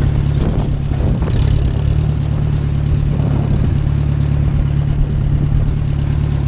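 Farm tractor engine running steadily as the tractor drives along, heard from the seat: an even low drone. A couple of light clicks or rattles come in the first second and a half.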